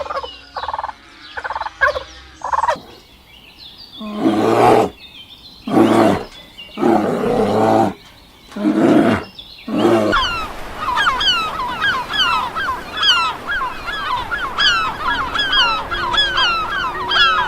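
A string of different animal calls: quick gobbling calls at first, then four loud hoarse calls about a second each from about four seconds in, then a fast run of high chirps from about ten seconds in.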